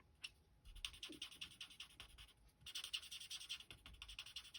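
Alcohol blending marker tip rubbing on cardstock in quick little circles, a faint rapid scratching, blending a darker shade in toward the centre, with a couple of short pauses.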